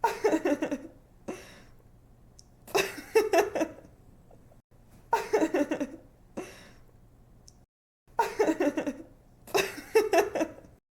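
A young woman laughing in five bursts of quick giggles, the first near the start and the last near the end, over a faint low hum.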